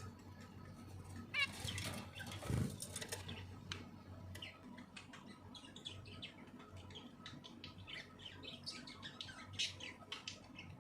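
Pet birds chirping in short high cheeps that grow thick over the second half, with a brief rustling flutter of wings and a soft thump about two seconds in.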